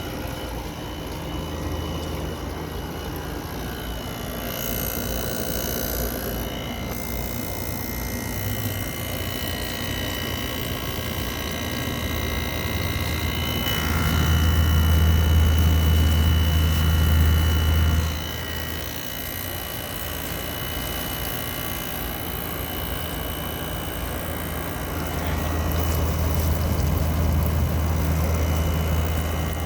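A Midea 5,000 BTU window air conditioner running: a steady whoosh with several constant tones and a low hum underneath. The low hum swells louder twice, for about four seconds midway and again near the end.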